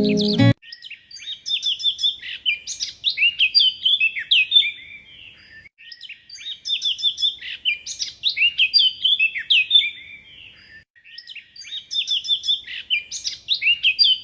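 A songbird singing a rapid phrase of chirps and whistles, the same phrase repeated three times with short pauses between. Background music cuts off about half a second in.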